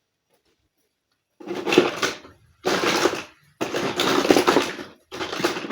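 Plastic toy pieces and packaging being handled, in four noisy bursts of crinkling and clatter, each about a second long.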